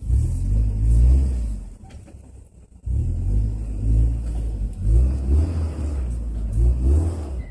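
Off-road vehicle engine revving hard under load while climbing a hill. It drops away for about a second near the two-second mark, then picks up again and keeps revving.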